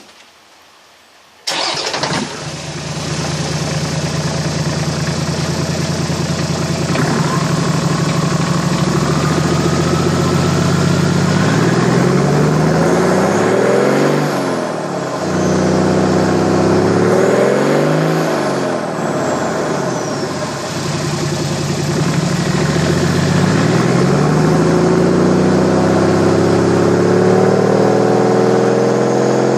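Engine of a 100 series vehicle with a Scotts Rods aftermarket exhaust starting about a second and a half in, then idling through the exhaust. Three times it is revved up and falls back to idle, and near the end the revs are held raised and steady.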